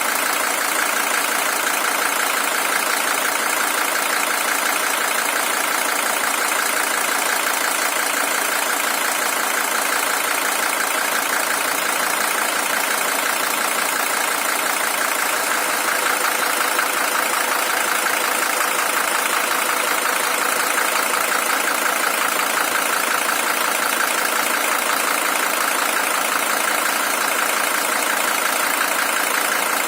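Mercedes-Benz OM617 five-cylinder diesel engine, original and at 620,000 km, idling steadily with its even diesel clatter.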